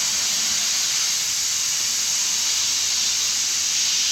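Steady hiss of compressed air running a pneumatic vacuum-and-pressure fluid unit as it pushes oil through the oil filter mount into a rebuilt engine, pre-lubricating the engine before its first start.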